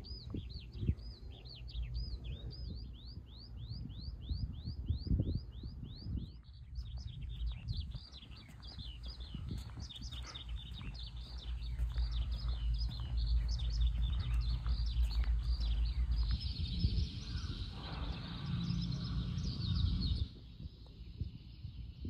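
Birds chirping: first a quick run of short falling chirps, about four a second, then denser overlapping chirping, with a rougher stretch of calling for a few seconds near the end. A low rumble runs underneath, strongest about halfway through.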